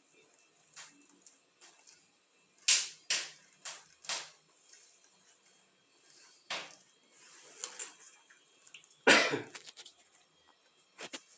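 Someone handling things at a wood fireplace while trying to light it: a string of short scrapes and knocks. Four come close together a few seconds in, and a longer, louder scrape comes about nine seconds in.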